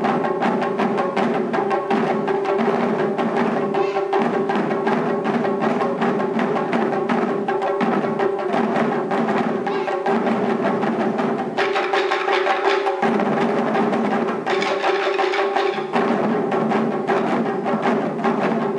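Taiko drums played by a group of young children: many rapid strikes in a steady rhythm, with a held musical tone underneath.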